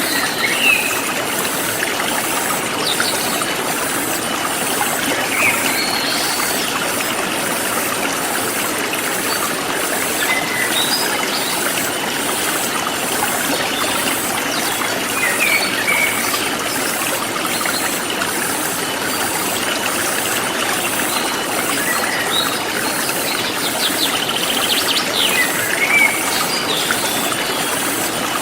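Forest stream flowing steadily, with short bird chirps every few seconds. Throughout, a high insect chirp pulses evenly, about one and a half times a second.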